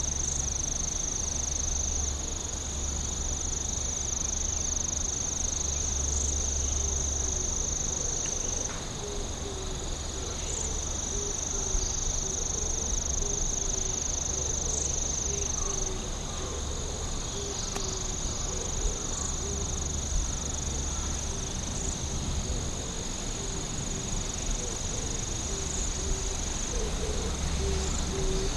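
Night insects trilling: a steady high-pitched trill carries on in long stretches of several seconds with short breaks between them. About a third of the way in, a lower, pulsed chirping joins it, over a faint low rumble.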